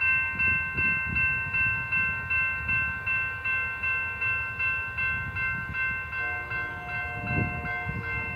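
Railroad grade-crossing bell ringing at an even pace, a little under three strokes a second, its clang made of several high steady tones. About six seconds in, a lower steady tone joins for around two seconds.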